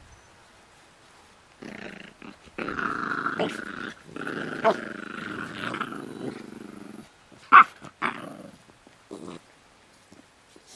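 Pit bull puppies growling as they play tug-of-war: a long throaty growl starting about a second and a half in, with a brief break in the middle. Near the end comes one short, sharp yip.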